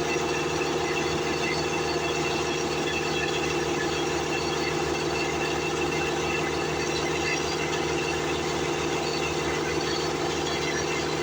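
A motor running steadily at a constant pitch, with an even hum and no change in speed.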